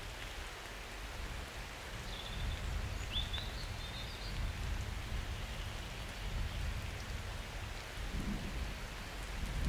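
Steady summer rain falling, with a low distant thunder rumble underneath. A few short high chirps come through about two to three seconds in.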